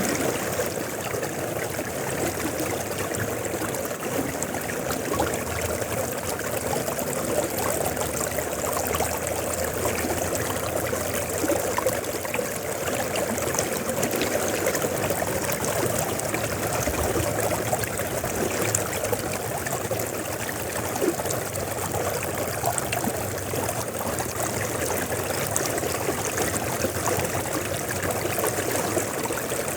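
River water flowing steadily, an even rushing with small splashes and gurgles.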